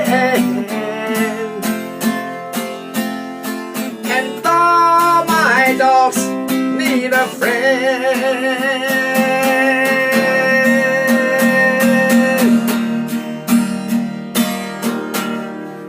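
Acoustic guitar strummed steadily while a singing voice holds a long, wavering note for about five seconds, ending around three-quarters of the way through; the strumming continues to the close of the song.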